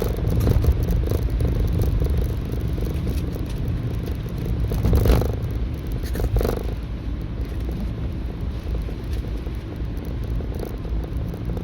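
A steady low rumble with a rough texture, swelling briefly about five and six and a half seconds in.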